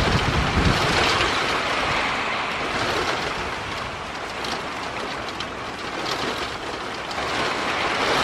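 Heavy rain pouring down in a thunderstorm, a steady dense hiss, with wind buffeting the microphone in the first second or so.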